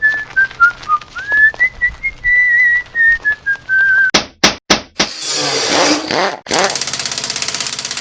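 A person whistling a wavering tune, then three sharp clicks and a few seconds of loud noise, the last part with a fast, even rhythm.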